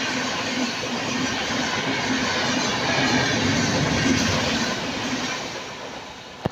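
Superfast express train passing at speed, its coaches' wheels rattling over the rail joints in a loud rush that fades away near the end.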